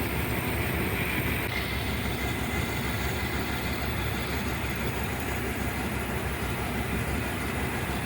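Dodge Ram 1500's 5.2-litre V8 idling steadily and smoothly, running again now that its burned distributor cap has been replaced.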